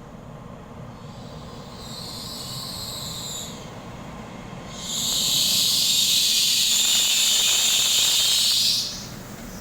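Compressed air venting from an EMU3000 train's pneumatic system with a hiss: a shorter, softer blast about two seconds in, then a loud, sustained one that cuts off sharply near the end, over the low rumble of the standing train.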